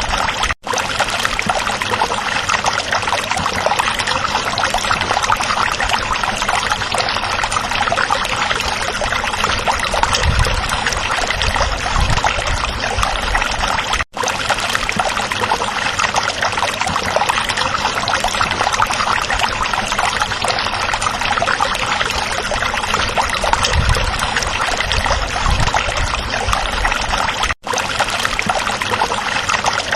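Stream water flowing and babbling steadily over rocks, a continuous rushing trickle. The sound cuts out for an instant three times, about every 13 seconds.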